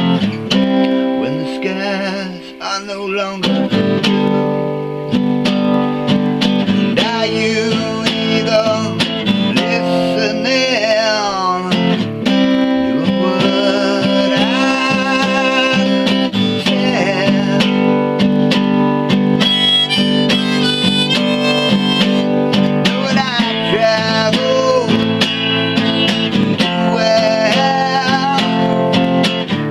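Acoustic guitar playing a song, with a wavering, sustained melody line over the chords.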